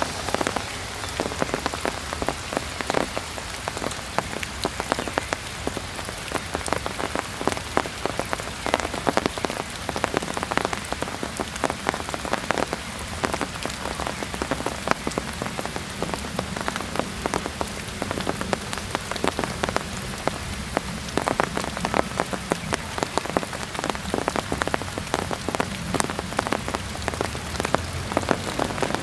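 Heavy rain falling steadily, with many sharp drops pattering close by.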